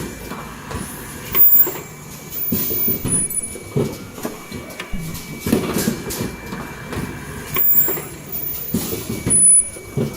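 N95 cup mask making machine running its automatic cycle: repeated mechanical knocks and clatter with brief high-pitched tones, the pattern coming round about every six seconds.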